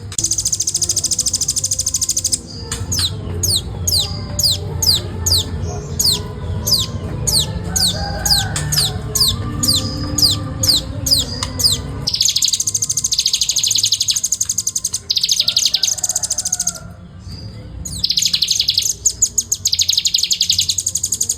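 Velvet-fronted nuthatch (rambatan) singing in loud, very rapid high trills (the fast "ngebren" chatter). Partway through the trills give way to a run of sharply descending notes, about two a second, before the trilling resumes.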